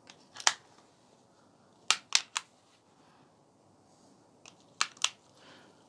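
Plastic TV remote buttons clicking as they are pressed: one click, then three in quick succession about two seconds in, then two more near the end.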